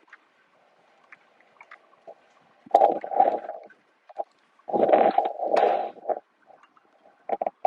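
Thunderstorm rumbling in irregular bursts, the two main ones about three and five seconds in, with short rumbles near the end.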